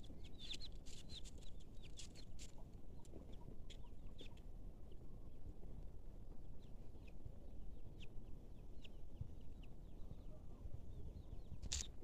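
Birds chirping: scattered short, high chirps, thickest in the first couple of seconds, over a steady low rumble.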